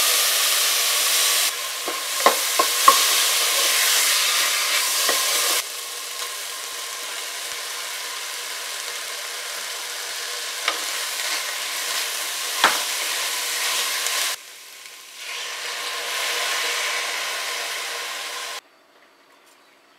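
Onions and chana dal sizzling in oil in a pressure cooker, then ridge gourd peels frying on top, with a few sharp clinks of a spoon stirring against the pot. The sizzle changes level abruptly a few times and cuts off near the end.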